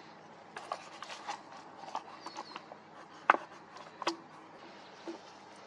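Irregular clicks and taps of small hard objects being handled, with one loud sharp click a little past halfway and another soon after.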